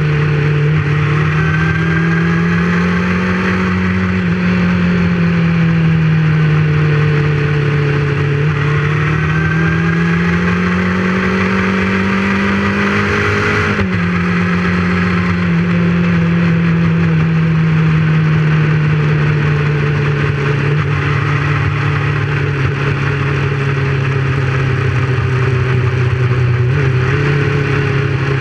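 Motorcycle engine running on the move, heard from the bike itself, its pitch slowly rising and falling with the throttle. It climbs and then drops suddenly about halfway through, with a steady rush of wind and road noise underneath.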